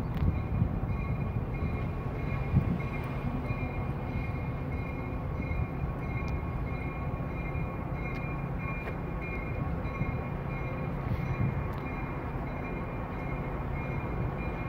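A train running on the tracks: a steady low rumble with a steady high-pitched whine over it and a few sharp clicks.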